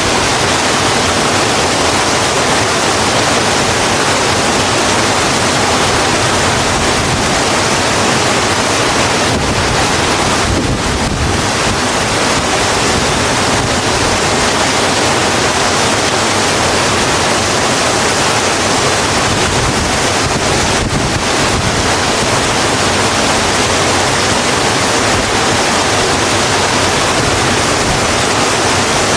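Steady, heavy rain falling: a dense, even hiss without pauses.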